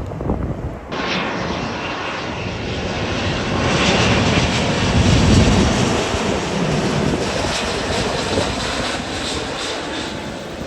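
Jet airliner passing close by, its engine noise coming in abruptly about a second in, swelling to a loud peak with a deep rumble near the middle, then slowly fading.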